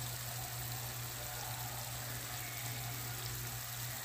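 Chicken pieces and masala sizzling steadily in hot ghee in a karahi, late in the bhuna stage when the spices have been fried down. A low steady hum runs underneath.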